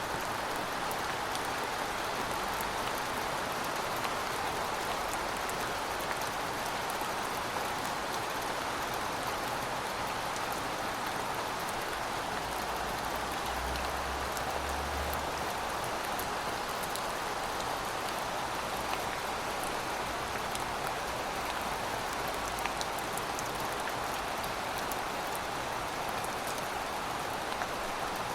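Steady rainfall: an even hiss of rain with the fine patter of individual drops.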